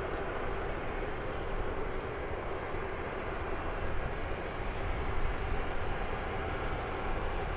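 Steady jet aircraft engine noise from an airliner at the airport.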